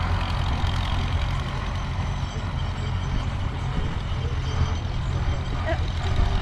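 Antique farm tractor engine running steadily, a deep low drone.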